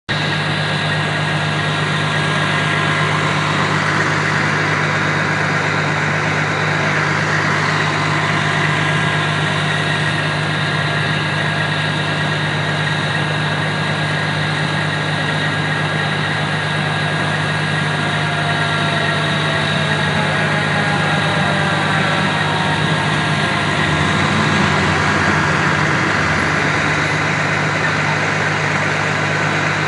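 Fire truck's diesel engine idling steadily, a low even hum at constant loudness.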